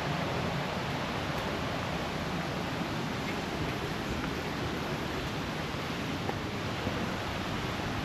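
Rushing creek water, a steady even hiss with no breaks.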